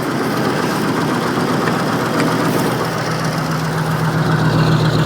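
Caterpillar 3208 naturally aspirated V8 diesel running through a true dual exhaust, warming up after a cold start, with a slight exhaust leak. Its steady low note gets louder about three and a half seconds in.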